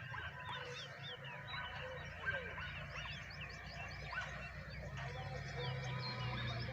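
Small birds chirping, many short quick calls overlapping throughout, over a low steady hum.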